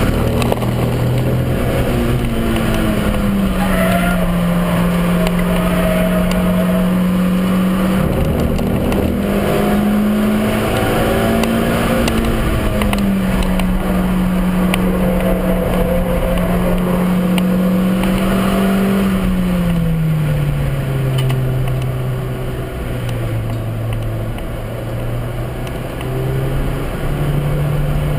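Suzuki Swift Sport's 1.6-litre four-cylinder engine heard from inside the stripped-out cabin, running hard at high revs under load. The pitch holds steady for long stretches, then dips and climbs with gear and throttle changes. About two-thirds of the way through, the revs and level drop for several seconds before building again near the end.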